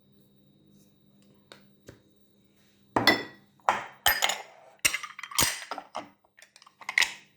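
A spoon clinking and scraping against a bowl while the apple strudel filling is stirred. A run of sharp strokes starts about three seconds in, roughly two a second.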